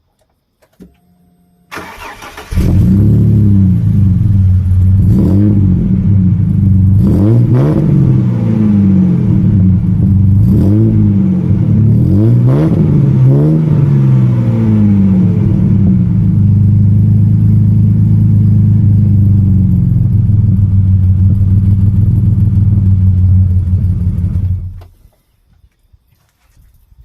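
Ford EL Falcon's 4.0-litre SOHC inline-six, breathing through Pacemaker 4499 extractors, a Venom high-flow cat and a 2.5-inch sports exhaust, cranks and starts about two seconds in. It is blipped several times, revs rising and falling, then idles steadily until it is switched off near the end.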